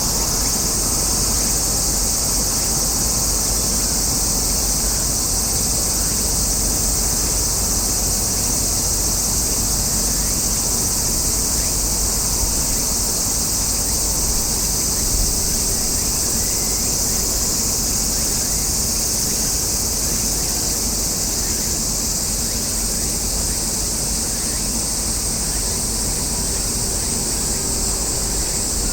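A summer chorus of cicadas: a steady, unbroken high buzz, over a low steady background noise.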